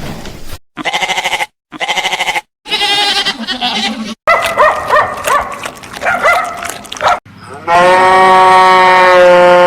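Bleating, a string of separate short quavering bleats followed by several calls that bend in pitch, then one long steady bleat near the end.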